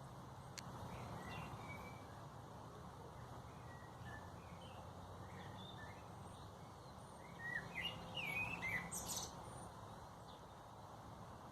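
Small songbirds chirping in short scattered calls, with a brief flurry of louder, quicker chirps about two-thirds of the way through, over a steady low background rumble.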